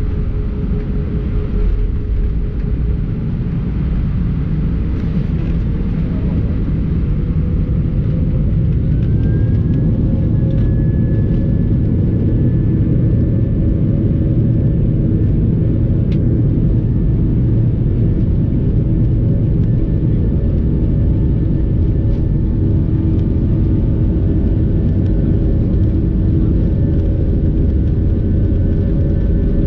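Airbus A320 jet engines heard from inside the cabin: a steady low rumble, with a whine that rises about nine seconds in and then holds as the engines spool up for takeoff.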